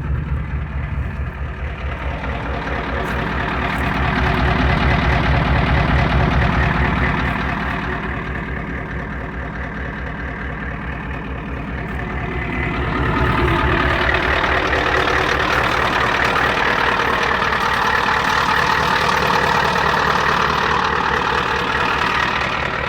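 Indirect-injection (IDI) diesel engine running shortly after a cold start, with a steady pulsing beat. It grows louder about four seconds in, eases off around eight seconds, then grows louder again about thirteen seconds in and holds there.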